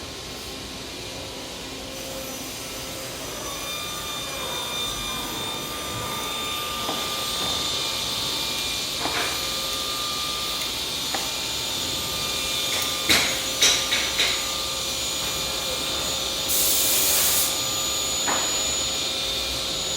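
Woodworking shop noise: a steady machine drone that grows louder over the first several seconds, a quick cluster of sharp knocks about two-thirds of the way through, and a loud hiss lasting about a second shortly after.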